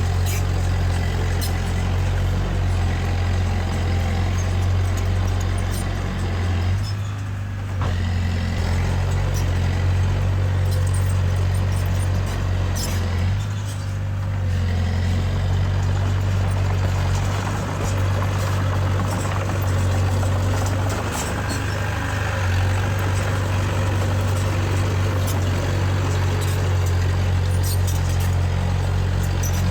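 Diesel engine of heavy earthmoving machinery running steadily under load, with scattered clanks and rattles. The engine note drops briefly twice, about a third and about halfway through.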